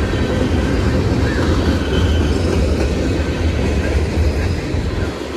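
Freight train rolling past close by: a loud, steady rumble of its cars on the rails.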